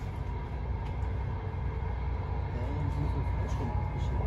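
Passenger train running at speed, heard from inside the carriage: a steady low rumble of wheels on rails, with a continuous hiss and a faint steady hum above it.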